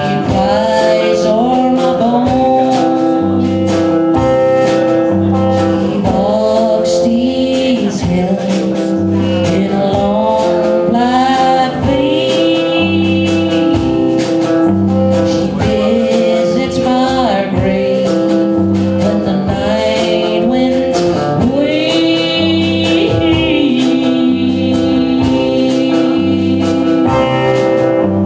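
A live band playing an upbeat country-rock song with drums, bass and guitar in a steady rhythm.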